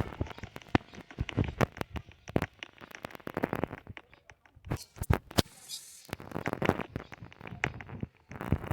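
Irregular close-up clicks, taps and scratching sounds, with a brief high hiss a little past halfway.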